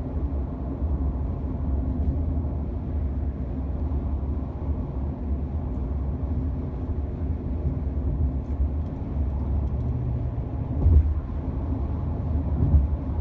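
Steady low road and tyre rumble inside a Honda Odyssey minivan's cabin at highway speed. Two brief low thumps stand out, about eleven seconds in and near the end.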